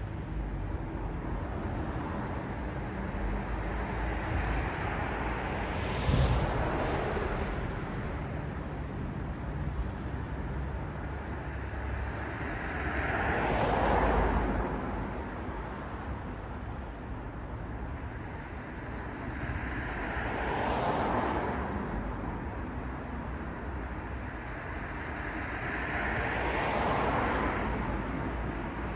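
City road traffic: a steady hum of traffic with single vehicles swelling past and fading about every seven seconds. A short thump comes about six seconds in.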